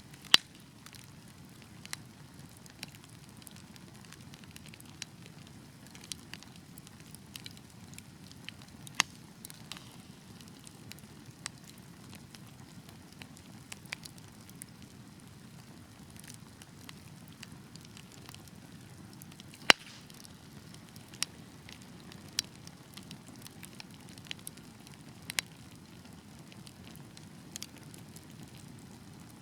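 Wood fire crackling: a steady low rush of flames with irregular sharp pops and snaps from the burning logs, two of them loudest, one just after the start and one about two-thirds of the way through.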